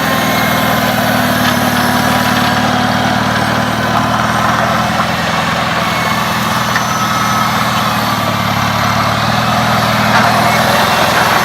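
1975 Farmall Cub's four-cylinder gasoline engine running steadily under way, its note shifting briefly about eight seconds in.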